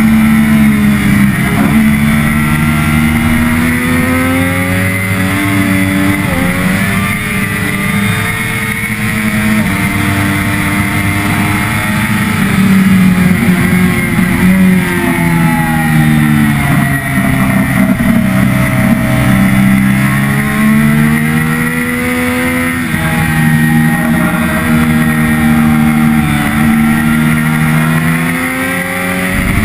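Triumph Daytona 675R inline three-cylinder engine at racing revs, heard from on board, its pitch climbing and dropping again and again through the gears, with a long fall in pitch about halfway through before it climbs again. Wind rushes over the microphone throughout.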